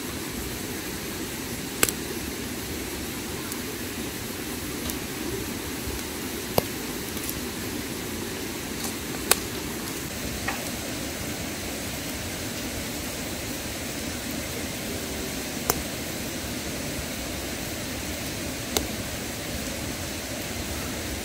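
Campfire crackling, a sharp pop every few seconds over a steady rushing hiss.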